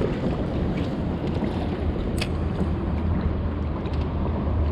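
A boat motor running steadily with a low hum, and a single sharp click about two seconds in.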